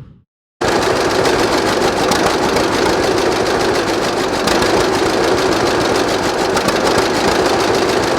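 A tractor engine running steadily with a fast, even firing beat, starting about half a second in.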